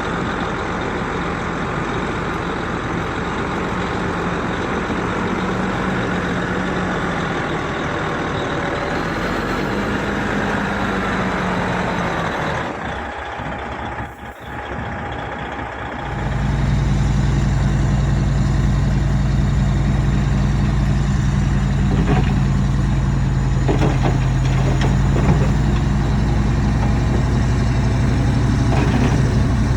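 Heavy diesel earthmoving machinery running with a steady engine drone. A little before halfway the sound drops away for a few seconds, then a louder, deeper heavy diesel engine takes over.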